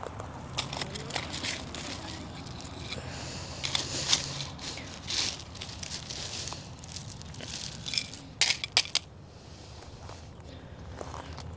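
Hand weeding in dry, gravelly ground: irregular crunching, scraping and crackling as weeds are pulled and the soil is disturbed, with a quick run of sharp snaps about eight and a half seconds in.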